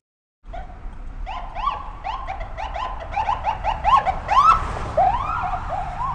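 Electronic car alarm sounding after a brief silence. It gives a fast series of short rising-and-falling chirps, about three or four a second, that change into longer, slower swoops about four and a half seconds in.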